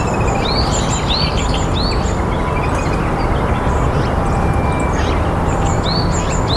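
Bird calls: a short arched whistled note repeated three times in quick succession near the start, and again three times near the end, over a steady rushing background noise.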